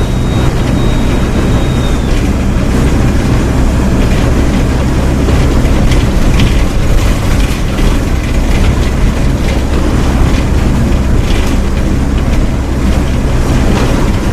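Mercedes-Benz OF 1722M bus diesel engine running steadily at high revs, with light rattles throughout. A thin high whistle stops about two seconds in.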